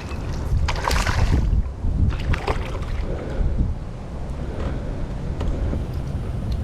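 Wind buffeting the microphone in a steady low rumble, with a short burst of water splashing about a second in.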